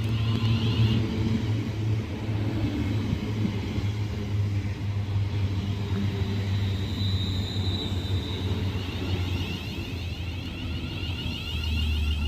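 Steady low rumble of a train at the station platform, with a brief faint high whine about seven seconds in.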